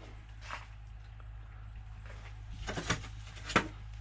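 Hand tools being handled and swapped: a few light clicks and knocks, the sharpest about three and a half seconds in, over a low steady hum.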